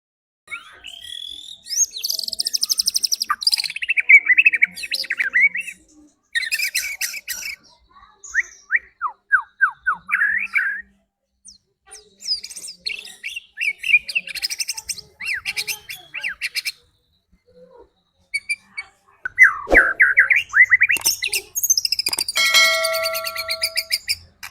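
White-rumped shama (murai batu) song: varied whistled phrases, fast trills and quick sweeping notes in bursts with short pauses, and a harsher buzzy call near the end. This is bait song used to provoke a captive shama into getting agitated and singing.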